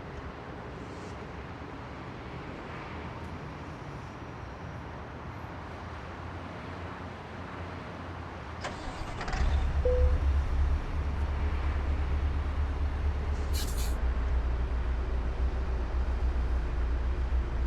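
Scania truck's diesel engine running with a low rumble that grows much louder about halfway through. A short hiss comes just before the rise, and another brief hiss follows a few seconds later.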